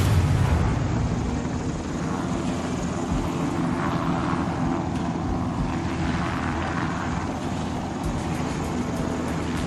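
Steady aircraft engine and rotor noise, loudest at the start and easing off over the first couple of seconds, with faint rapid ticking near the end.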